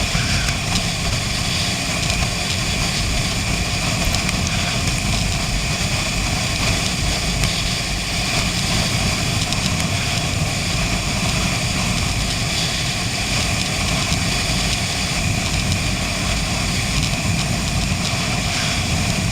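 Honda CB 500 motorcycle running at a steady cruise, heard from the rider's position, its engine rumble mixed with steady rushing wind noise.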